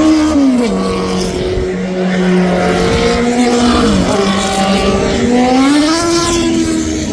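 Racing car engine running hard, its pitch dropping sharply about half a second in and holding low. It dips again about four seconds in, climbs, then falls once more near the end as the throttle and revs change.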